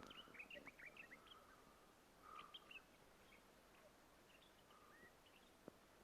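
Faint songbirds chirping: many short, quick calls, a cluster of them in the first second or so and another around two and a half seconds in, with a few scattered chirps after.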